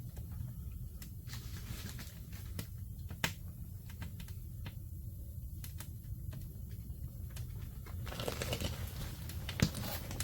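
Wood fire crackling: irregular sharp pops and snaps over a low steady rumble, with a louder rustle near the end capped by one sharp snap.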